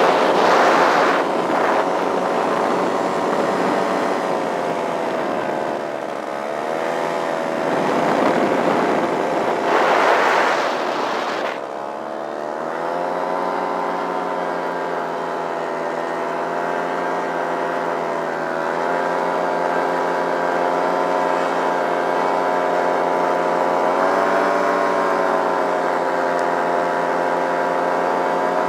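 Simonini two-stroke paramotor engine, fitted with a Nirvana Rodeo muffler and intake silencer, running. Its pitch rises and falls over the first dozen seconds, with two louder rushing bursts near the start and about ten seconds in, then it holds a steady speed.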